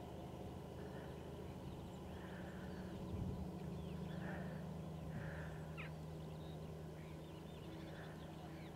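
Waterbirds over the mudflats calling again and again in short calls, with thin higher chirps among them. A faint steady low hum lies underneath.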